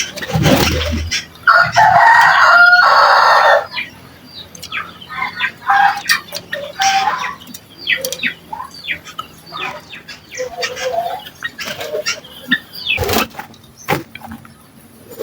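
A rooster crows once, a loud call of about two seconds starting a second and a half in, followed by scattered short bird chirps.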